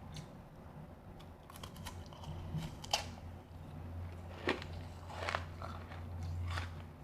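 Close-miked biting and chewing of refrozen powdery ice: a string of sharp, crisp crunches with softer chewing between them, the loudest crunch about three seconds in.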